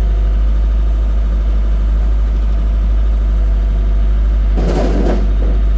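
Engine idling with a steady low hum, with a brief rush of noise about four and a half seconds in.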